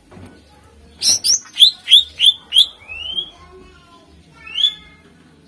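Green leafbird (cucak ijo) singing: a quick run of loud, sharp upward-swept notes, then a couple of longer rising whistled slurs.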